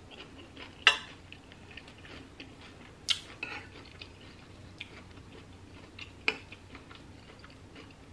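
Close-miked chewing, with soft wet mouth clicks throughout. Three sharper clinks of cutlery on dishware, about a second in, three seconds in and six seconds in.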